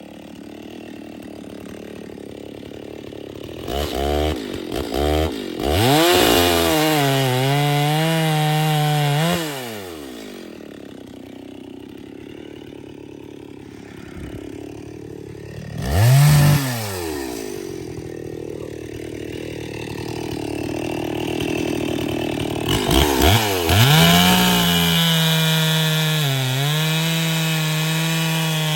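Echo CS-6700 two-stroke chainsaw idling, then blipped and run at full throttle for about four seconds before dropping back to idle. A short rev follows, then it is revved up again and held at high speed, its pitch dipping slightly as it bogs into the wood while cutting.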